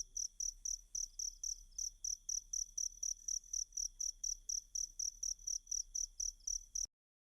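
Cricket (jangkrik) chirping in an even rhythm, about four to five high chirps a second, with a faint steady high trill underneath. It cuts off suddenly near the end.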